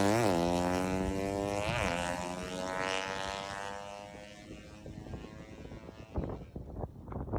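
A 200cc race motorcycle engine at full throttle, accelerating away through two quick upshifts and fading into the distance. Near the end, gusts of wind on the microphone.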